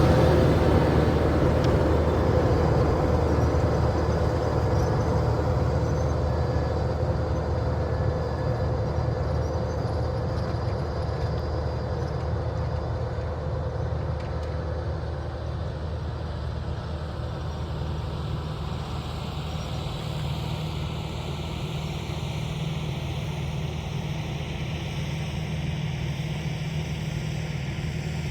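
Farm tractor's diesel engine running steadily under load with a rotary tiller, growing gradually fainter.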